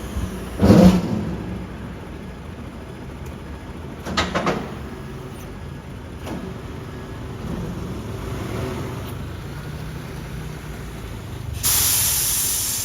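Heavy truck running with a steady low rumble, a loud bang about a second in and a rattle of knocks around four seconds in. Near the end comes a sharp air-brake hiss that fades away.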